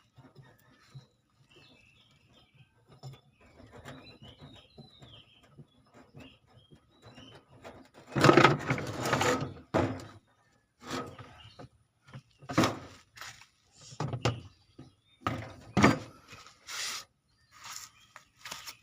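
Scraping and knocking on a washing machine's stuck pulsator as it is worked loose. One long scraping burst comes about eight seconds in, followed by a string of shorter knocks and scrapes.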